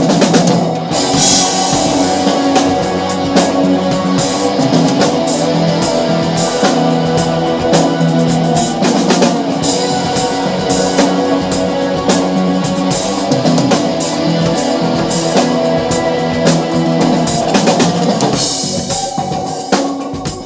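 A rock drum kit, a Sonor kit with Paiste cymbals, is played along to a guitar-driven rock song. A cymbal crash rings out about a second in, and the drumming thins out near the end.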